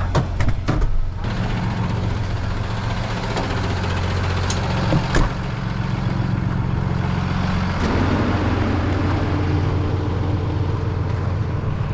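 Truck engine idling steadily, its note shifting about eight seconds in, with a few sharp clicks and knocks near the start.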